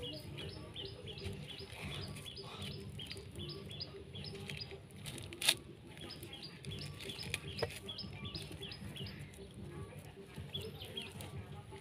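A small bird chirping over and over, about three short high notes a second, falling silent for a couple of seconds mid-way and then resuming. A single sharp click about halfway through is the loudest sound, with a smaller click a couple of seconds later.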